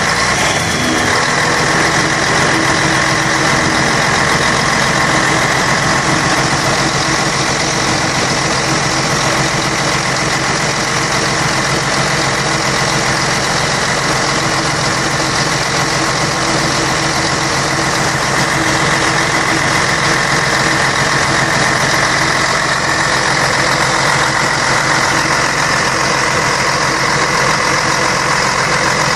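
Scania K113 bus's six-cylinder diesel engine running steadily, with an even mechanical drone and no change in speed.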